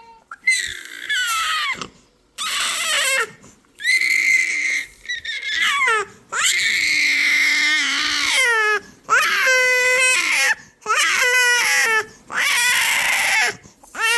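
A young child crying hard: a run of about eight loud wails, each a second or two long, with short breaths between them.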